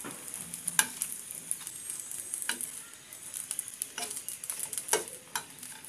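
Spring rolls shallow-frying in a little oil in a frying pan: a steady sizzle, with several sharp clicks of a spoon knocking the pan as the rolls are turned.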